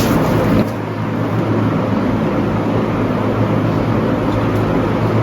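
Steady background noise with a low hum and no distinct event; the sound being played for the guessing game does not come through.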